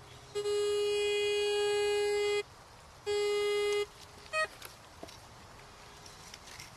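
Metal detector sounding target tones: a steady low tone held for about two seconds, a second shorter one of under a second, then a brief blip. The tones signal a buried metal target.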